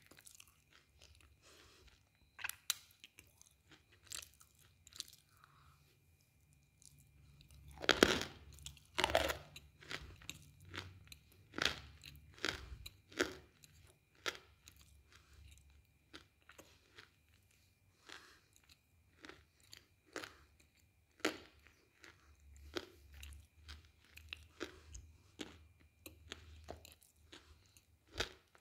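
Close-up chewing of a chalky white chunk, with irregular crisp crunches and wet mouth sounds. There is a loud crunching bite about eight seconds in and another just after.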